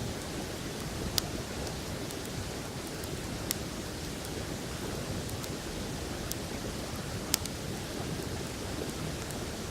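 Wood campfire burning on open ground, giving a few sharp pops, the loudest about a second in and about seven seconds in, over the steady rush of a river.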